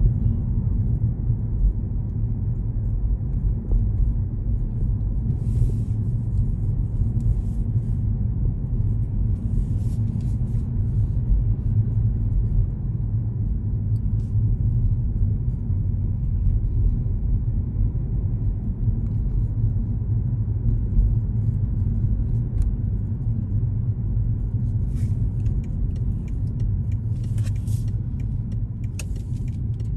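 Steady road and engine rumble of a moving car heard from inside its cabin, with a few faint clicks and rattles now and then, more of them near the end.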